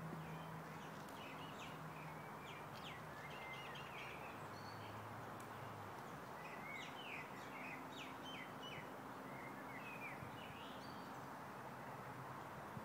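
Faint outdoor ambience: a steady rushing hiss with small birds chirping in quick clusters, one about a second in and another just past the middle.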